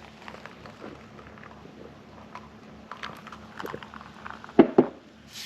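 Someone eating: chewing with small clicks and taps of chopsticks and tableware, then two louder knocks in quick succession near the end.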